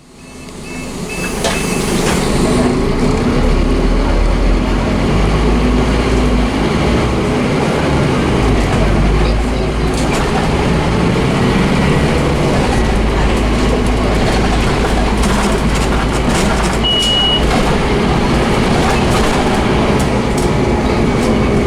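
Scania DC9 five-cylinder diesel of a Scania OmniCity double-decker bus, driven hard under load, with a heavy low rumble that changes in strength several times. A brief high beep sounds about 17 seconds in.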